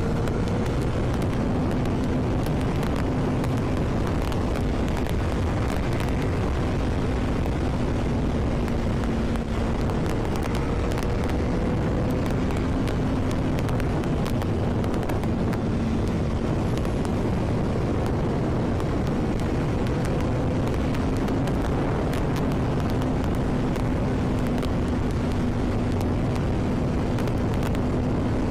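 Honda CBR1000RR's inline-four engine running at fairly steady revs while riding, its pitch easing up and down slightly, under a constant rush of wind noise.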